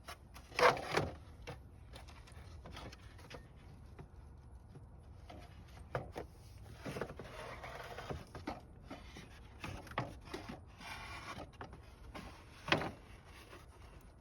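Scattered knocks, clicks and scrapes of hand work on a car's radiator fan assembly as it is worked loose, with a sharp knock about half a second in and another near the end.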